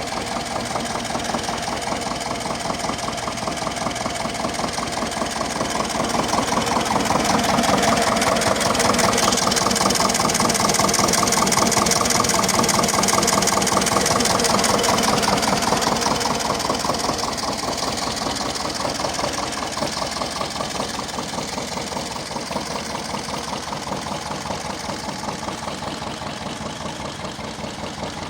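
Two-cylinder, oil- and air-cooled VM 102 diesel engine of a Bertolini 440 tractor running with a steady knocking beat. It grows louder from about six seconds in, peaks mid-way, then slowly eases off.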